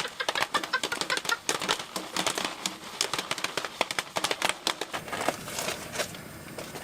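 Jiffy Pop popcorn popping in its foil pan: a rapid, dense crackle of kernels bursting that thins out to scattered pops near the end.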